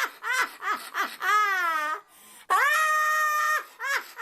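A young child's high-pitched crying and wailing voice: several short cries, then two longer held wails about a second each.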